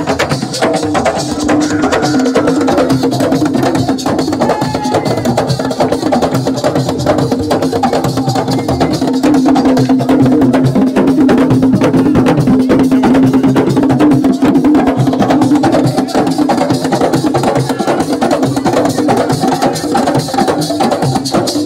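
Assiko (siko) band music: fast, dense percussion of sharp clicking strikes and drums over a steady held low note, growing a little louder about halfway through.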